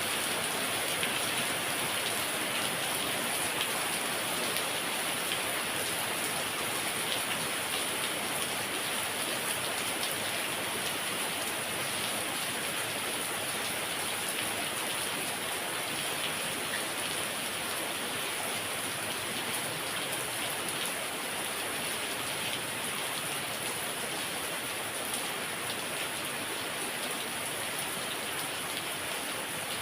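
Heavy rain falling steadily, an even hiss of downpour with scattered drop ticks on surfaces.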